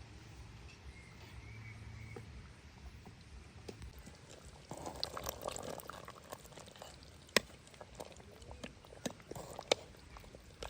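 Liquid being poured for about a second, followed by a few sharp clinks.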